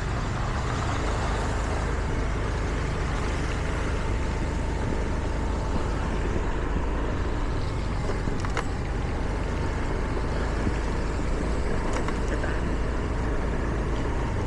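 Steady road noise of a car driving on a wet road: a low rumble with tyre hiss on the wet surface, and two faint clicks in the second half.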